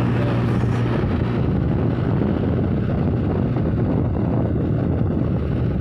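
Tractor engine running steadily as the tractor drives along.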